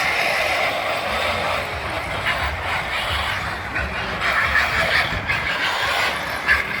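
Radio-controlled model monster truck driving, a steady rough mechanical noise of its drivetrain and tyres on the ground.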